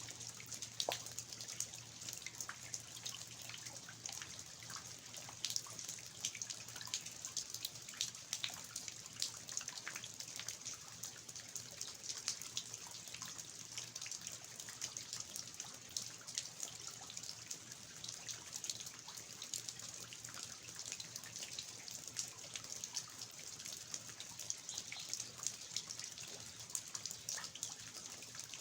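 Rain falling in a garden, with water dripping from the eaves of an old house: a steady hiss of rain with many irregular drops and drips pattering.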